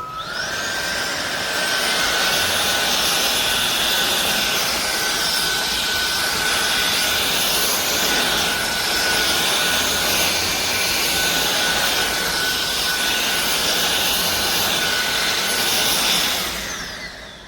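SunSare X7A cordless stick vacuum cleaner switched on and running. Its motor spins up with a quick rising whine, holds a steady high whine over the rush of air, then winds down near the end as it is switched off.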